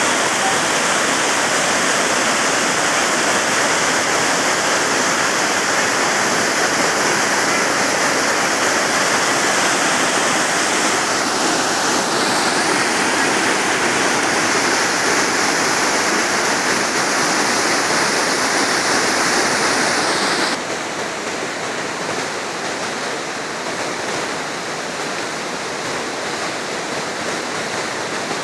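Steady rush of falling water from a waterfall. About 20 seconds in it drops abruptly to a quieter, duller rush.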